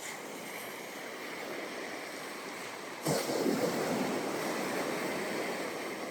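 Ocean waves washing on a sandy beach, a steady surf rush with a wave breaking and washing up about halfway through, then slowly fading.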